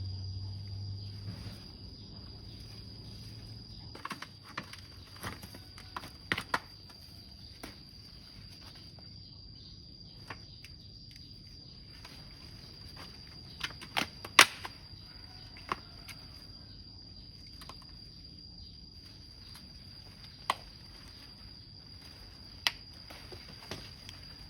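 Steady high insect trilling with a fainter higher insect hiss that comes and goes. Over it, scattered short sharp snaps and rustles, about a dozen, loudest in the middle.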